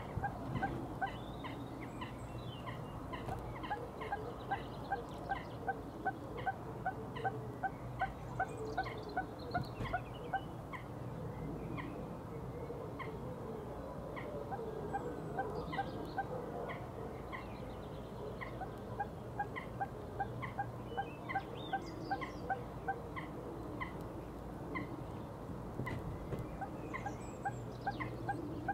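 A bird's short call repeated about three times a second in runs of several seconds, with other birds chirping faintly and a low steady hum underneath.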